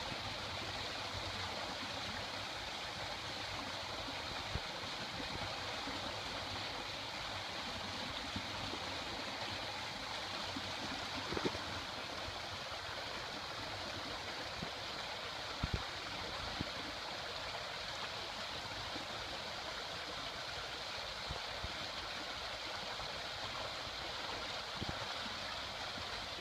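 Steady rush of flowing water from a stream or waterfall, with a few faint knocks now and then.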